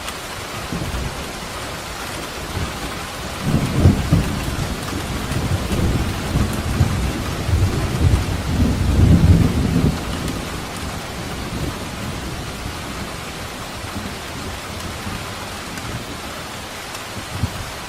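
Steady rain falling, with a roll of thunder rumbling low under it from a few seconds in until about ten seconds in, swelling twice before it fades.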